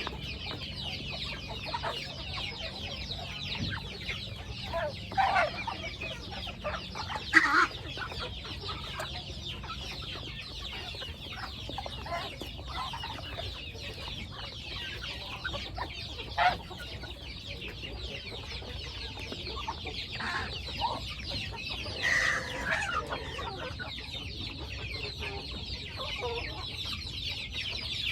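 Chickens clucking, with a dense, constant high-pitched chatter underneath and a handful of louder calls scattered through, the loudest about seven seconds in and around twenty-two seconds in. A faint low hum runs through the first several seconds.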